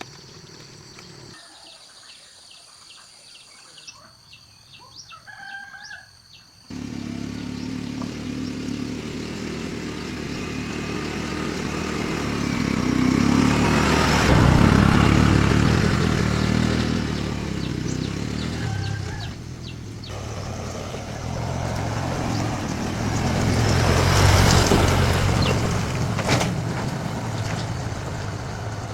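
A few chickens clucking at low level, then a motor vehicle's engine cuts in sharply and keeps running loudly, its pitch and loudness swelling and easing twice.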